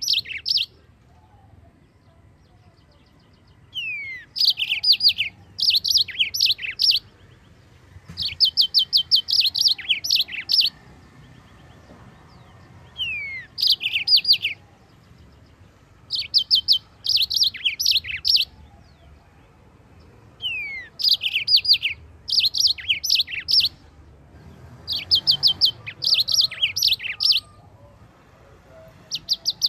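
Yellow-fronted canary (Mozambique canary) singing in repeated bursts of rapid high chirps and down-slurred whistles, each burst one to three seconds long, separated by short pauses.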